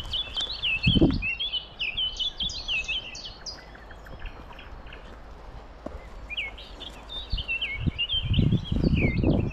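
A small songbird singing fast runs of varied high chirping notes, breaking off after about three seconds and starting again a few seconds later. Heavy low thuds come about a second in and again as a cluster near the end.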